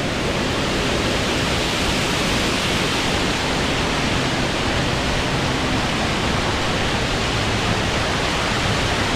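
Water pouring down heavily in a steady, unbroken rush.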